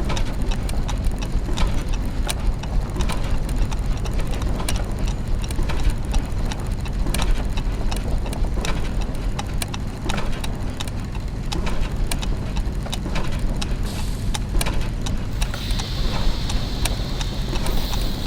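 Clockwork mechanisms and gears: many ticks and clicks at irregular spacing over a steady low machine hum. About three-quarters of the way through, a steady hiss joins in.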